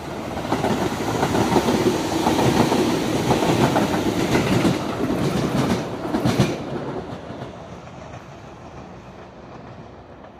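Tobu limited-express electric train running through a station without stopping, its wheels clicking rapidly over the rail joints as the cars pass. The sound is loudest in the first six seconds, then fades as the train moves away.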